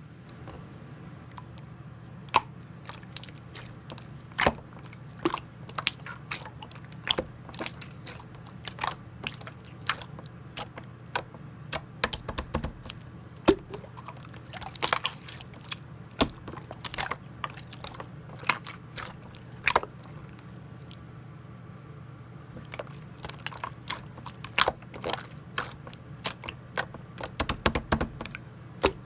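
Clear slime being squeezed and pressed by hand, giving irregular sticky clicks and little pops, thinning out for a couple of seconds past the middle, over a steady low hum.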